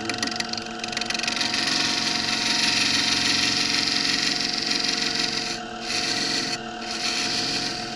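A power tool runs with a steady motor hum while it grinds or sands resin-rich loblolly pine fatwood, giving a continuous rasping hiss. The rasping breaks off briefly twice near the end as the tool is lifted from the wood, while the motor keeps running.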